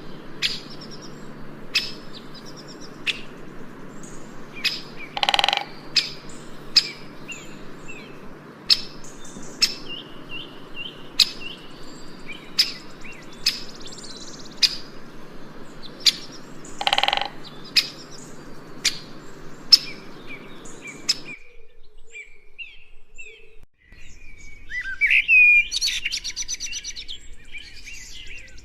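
Birds calling: short sharp chirps repeated about once a second, with two longer, harsher calls among them. Near the end this cuts suddenly to a different bird twittering in quick runs.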